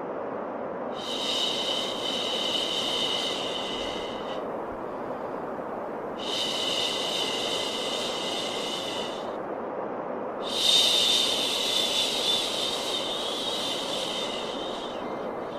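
Steady low white noise with long, drawn-out "shhh" shushing sounds over it, three in a row, each lasting three to four seconds, as used to calm a crying or colicky baby.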